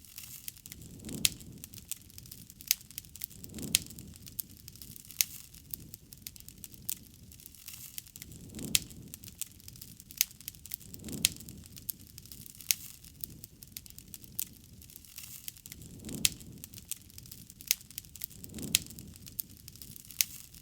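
Campfire crackling, with frequent sharp pops and snaps of burning wood over a low hush. Soft low swells of sound recur every couple of seconds.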